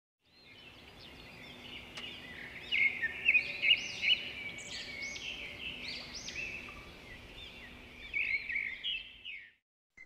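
A chorus of small birds chirping and twittering together, with many quick rising and falling chirps over a faint steady hum. It grows louder and busier from about three seconds in and cuts off shortly before the end.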